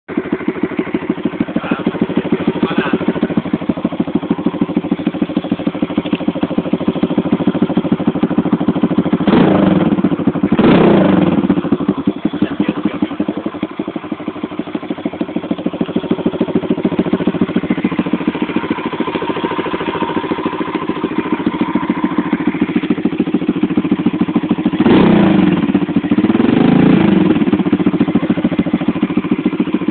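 Loncin 125 cc single-cylinder four-stroke pit bike engine idling through its exhaust with a steady, even beat. The throttle is blipped four times in short revs, twice around ten seconds in and twice around twenty-five seconds in.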